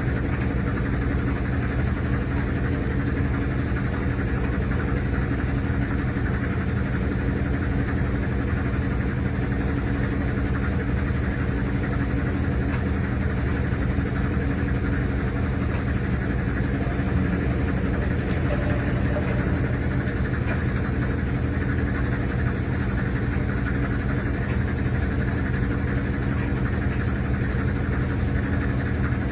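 RCA RPW302 portable washing machine running steadily in its spin cycle, a constant motor hum and drum whir picked up from on top of the machine.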